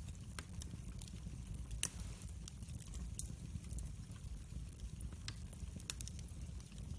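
Wood fire burning: irregular sharp crackles and pops over a low steady rumble, with one louder pop about two seconds in.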